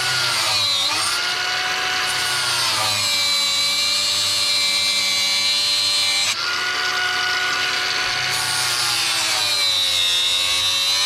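Power drill motor whining steadily, its pitch sagging and climbing several times as the speed changes, with a sudden jump in speed about six seconds in.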